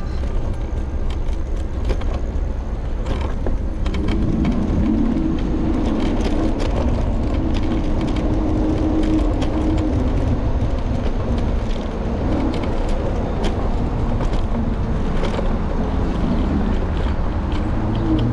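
Street ride on an electric scooter heard from a handlebar-mounted camera: steady wind and road rumble, a pitched whine that rises and falls, and scattered short rattles and clicks.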